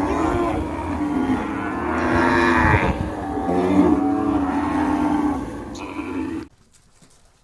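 Cattle mooing, several long calls one after another, cutting off suddenly about six and a half seconds in.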